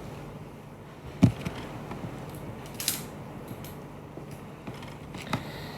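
A few knocks and clicks of small objects being handled on a tabletop: a dull knock about a second in, a sharp click near three seconds, and another knock near the end.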